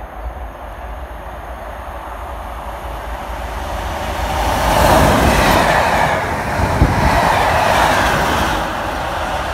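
Class 37 diesel locomotive (37423) hauling a test train, approaching at speed and passing close by. The engine and wheel noise grows louder over several seconds and is loudest while the locomotive goes past, with one sharp clank about seven seconds in. It then eases off as the locomotive moves away.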